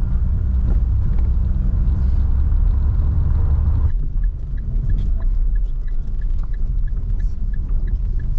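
Low rumble of a car driving on a dirt road. The sound changes abruptly about four seconds in, and from then on a faint regular ticking, about three a second, runs over the rumble.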